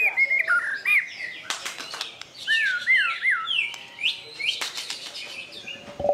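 White-rumped shamas singing: quick looping whistled phrases that swoop up and down, repeated several times in a row, mixed with sharp clicking notes.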